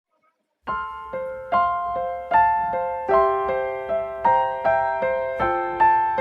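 Background music: a gentle piano melody with single notes struck at an even pace, about two or three a second, each fading before the next. It starts after a short silence, about two-thirds of a second in.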